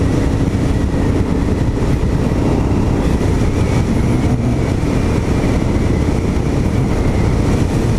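Honda XR650L single-cylinder motorcycle running steadily at road speed, with a constant low rush of wind and road noise.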